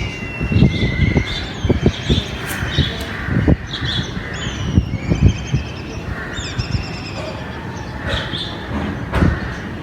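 Several birds calling and chirping in short repeated calls, over a low rumble with frequent dull thumps.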